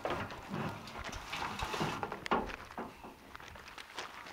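Straw bale being worked by hand: dry straw rustling and crunching in irregular bursts, with a sharper knock about two seconds in.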